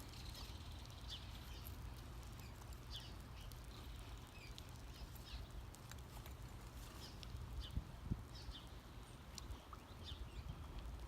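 Faint outdoor ambience of birds chirping in short, scattered high calls, one or two a second, over a steady low rumble.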